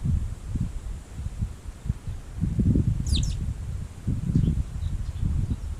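Wind buffeting the microphone in uneven gusts, with one brief, high, downward-sweeping call from a small bird about three seconds in and a few faint chirps after it.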